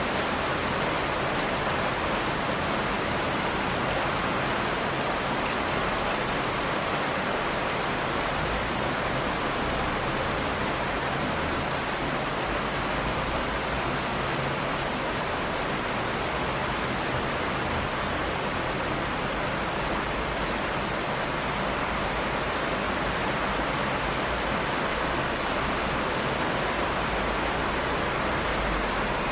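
Steady heavy rain: an even, unbroken hiss of rainfall with no single drops or thunder standing out.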